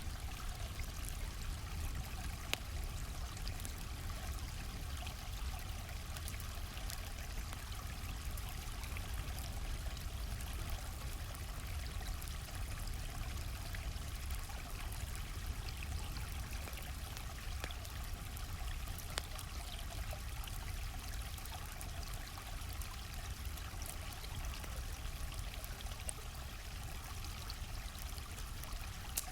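A flowing stream's steady rush and trickle, with a few sharp pops from a crackling campfire.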